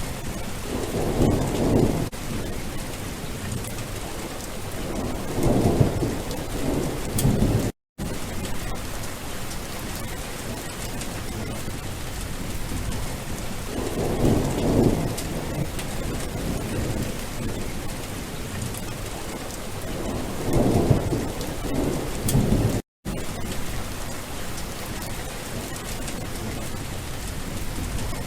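Steady heavy rain with four low rolls of thunder rumbling up and dying away. The sound cuts out completely for a moment twice.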